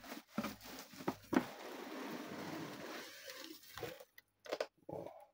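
Cardboard box and packaging being handled as a lamp is taken out: a sharp knock about a second in, a stretch of rustling, then a few short knocks and clicks.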